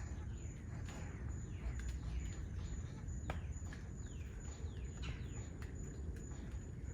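Wild birds calling, many short chirps that each sweep downward in pitch in quick succession, over a low outdoor rumble, with one sharp click a little over three seconds in.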